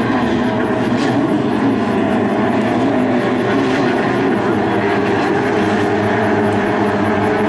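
Racing boat engines running hard in a loud, steady drone, with no clear rise or fall.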